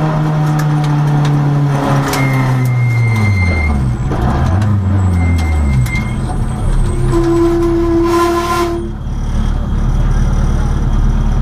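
Renault rally car engine heard from inside the cabin, its pitch falling over the first few seconds as the car slows from stage speed, then running steadily at low revs. A held tone sounds for under two seconds about seven seconds in.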